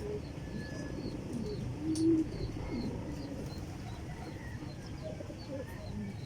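Domestic pigeons cooing: a few short low coos, the loudest about two seconds in, with faint high chirping behind.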